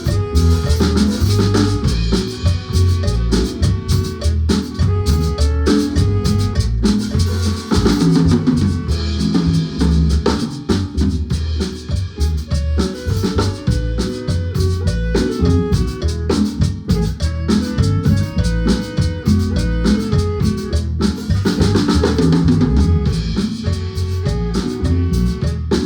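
Guatemalan marimba band playing an instrumental piece: rapid struck marimba notes over a steady drum-kit beat.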